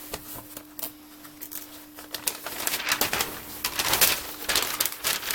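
Freshly lit wood fire catching in a garage stove, its firewood and newspaper soaked in waste oil and brake fluid: crackling and popping that grows denser and louder from about two seconds in, over a steady low hum.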